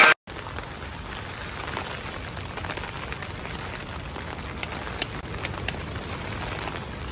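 Light rain falling steadily on the tent, heard from inside, with a few sharper ticks in the middle.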